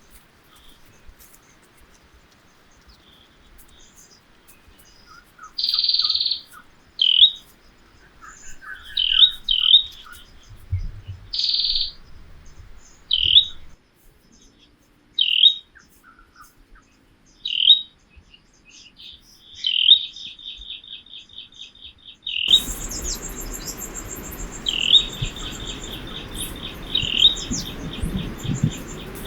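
Birds calling: short chirps repeated every second or two, then rattling trills. About three-quarters of the way through, a steady hiss of background noise starts suddenly beneath the calls.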